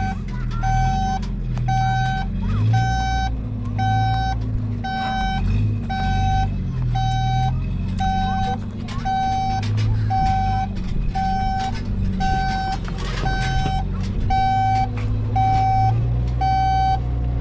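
Reversing alarm of an earth-moving machine beeping steadily about once a second over its diesel engine, which rises and falls as the machine works.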